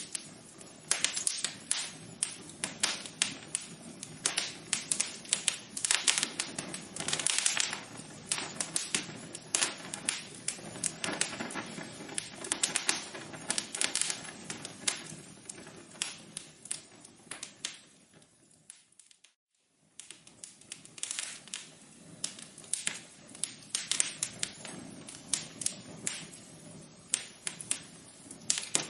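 Wood fire crackling in a fireplace: dense, irregular snaps and pops over a soft hiss. The crackle fades almost to silence about nineteen seconds in, then starts up again.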